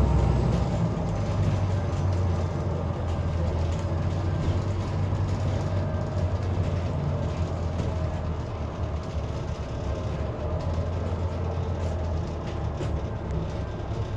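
Scania N230UD bus engine running steadily at high revs under load, heard from inside the bus. Its ZF automatic gearbox is slipping, which keeps the engine near the redline.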